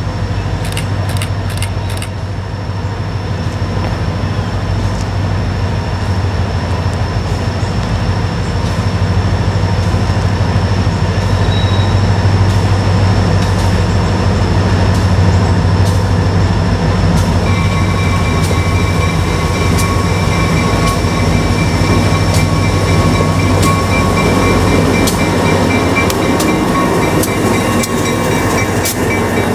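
Freight train led by diesel locomotives running past, the engines droning steadily under sharp clicks of wheels over rail joints. A steady high-pitched wheel squeal joins in a little past halfway.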